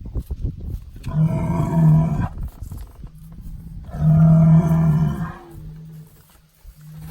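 Bull bellowing: two long, deep calls, one about a second in and another about four seconds in, then a quieter low moan.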